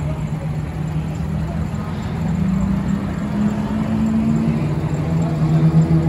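A car engine running at low, steady revs. Its pitch lifts slightly from about two seconds in and settles back lower near the end.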